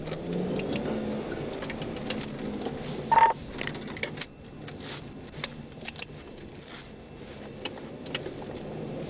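Road and engine noise of a moving patrol car heard inside the cabin, with scattered light clicks and a short beep about three seconds in.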